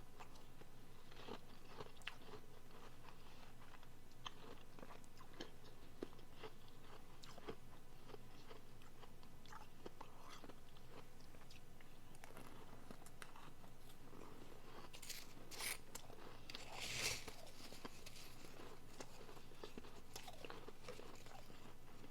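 Close-up biting and chewing of soft refrozen powdery blender ice: scattered soft crunches and clicks, with two louder crunches about two-thirds of the way through.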